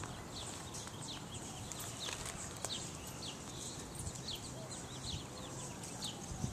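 Small birds chirping over and over, short high chirps several times a second, with light clicks and steps of a small dog moving over dirt and leaves.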